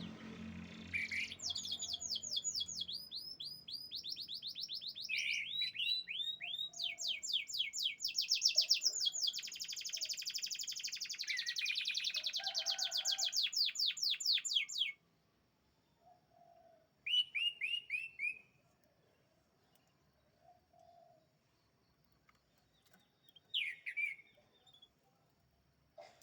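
Domestic canary singing a long song of rapid trills, each a fast run of repeated high, falling notes, with the phrase changing every second or two. The song stops abruptly partway through, and two short trills follow.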